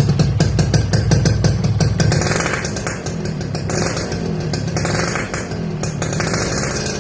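Yamaha RX-King's two-stroke single-cylinder engine running through a gutted muffler, its funnel removed and two baffles left. It runs with a fast, even firing beat for about two seconds, then is blipped up several times.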